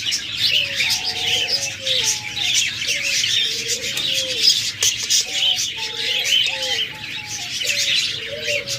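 A flock of caged budgerigars chattering with dense, busy chirps, with a lower line of short, bending notes repeating about every half second underneath.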